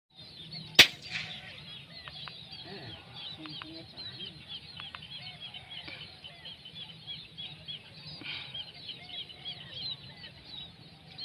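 A single sharp air-rifle shot about a second in, then a flock of munias chirping continuously with many short, high calls.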